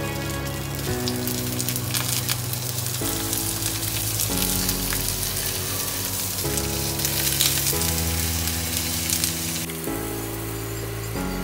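Hash brown patties sizzling in oil in a non-stick pan as they are turned with a spatula, over background music with held chords that change every second or so.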